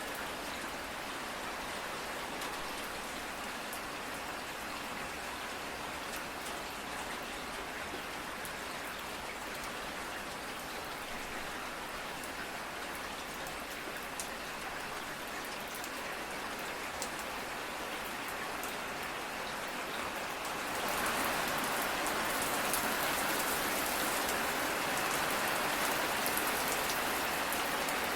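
Steady rain falling, with the patter of individual drops on a surface; about three-quarters of the way through it grows heavier and louder.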